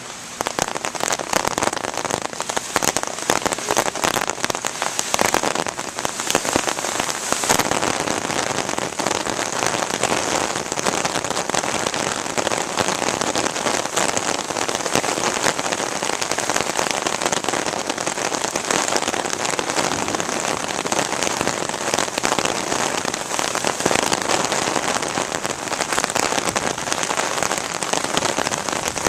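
Heavy rain pouring down, a dense steady hiss crowded with sharp clicks of drops striking close by.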